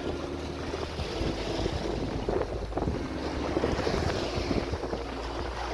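Sea surf washing against shoreline rocks, with wind buffeting the microphone and a faint, broken steady hum underneath.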